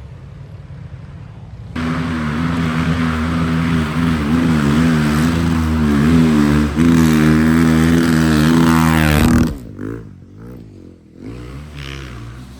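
Motocross motorcycle engine revving loudly up close, its pitch rising and falling with the throttle for about eight seconds, then falling away suddenly; fainter engine sound follows.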